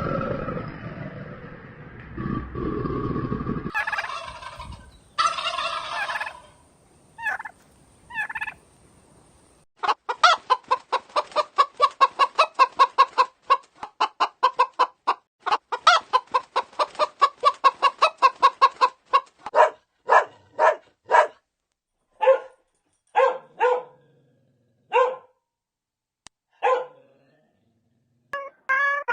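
Poultry calling: a long run of rapid, evenly repeated calls at about four to five a second, then a string of separate calls with pauses between them. Other animal calls come before it in the first few seconds.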